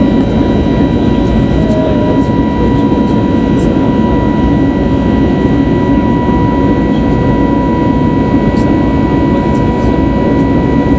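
Steady jet noise heard inside the cabin of an Airbus A320neo in flight: the rush of airflow and the run of its CFM LEAP-1A turbofans, with a thin steady whine above.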